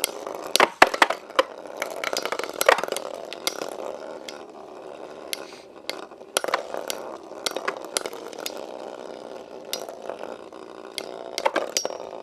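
Two metal-wheeled Beyblade spinning tops, Lightning L-Drago 100HF and Burn Fireblaze 135MS, spin in a stadium with a steady whir. Many sharp clicks sound through the whir as the tops clash.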